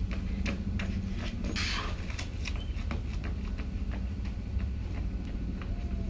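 Running footsteps, about three strides a second, over a steady low rumble of wind on the microphone, with a short hiss about one and a half seconds in.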